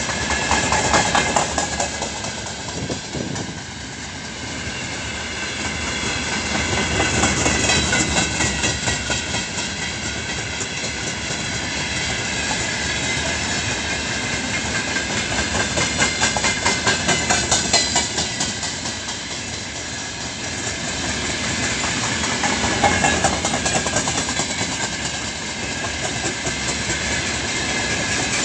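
Freight train of open-top gondola wagons rolling past close by, steel wheels clattering steadily over the rail joints. The sound swells and eases several times as groups of wagons go by.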